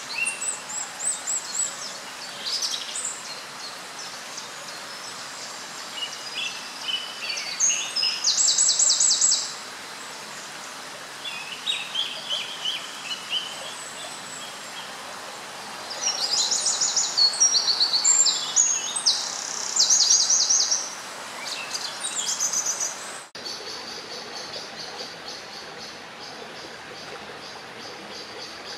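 Small birds singing in several bursts of rapid high trills and repeated notes over a steady background rush. About three-quarters of the way through it cuts off abruptly to a steady hiss with a faint high buzz.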